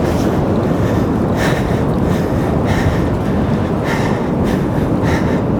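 Wind buffeting the microphone, a steady loud rumble, with short hissing sounds recurring every half second or so.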